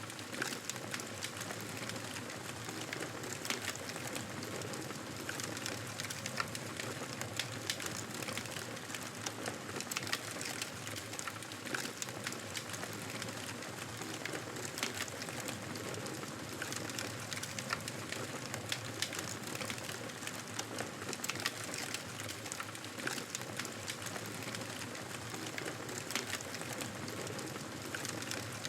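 Wood fire crackling in a fireplace: a steady hiss with frequent sharp, irregular pops and snaps.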